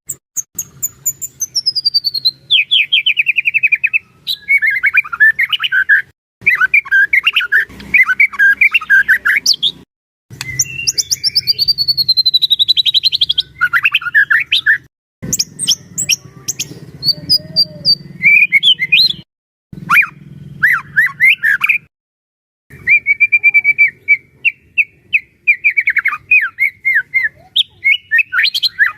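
White-rumped shama (murai batu) in full song: loud, fast, varied phrases of rapid trills that sweep down from high to middle pitch, with several abrupt short breaks.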